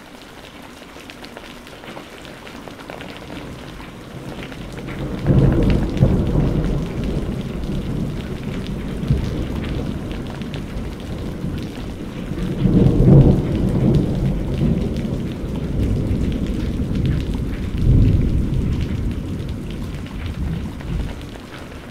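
Steady rain with rolling thunder: a long low rumble builds about five seconds in, swells again around the middle and once more later on, then dies away near the end while the rain goes on.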